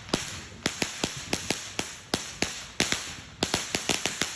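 Fireworks going off in a rapid, irregular string of about twenty sharp cracks, coming faster in the last second.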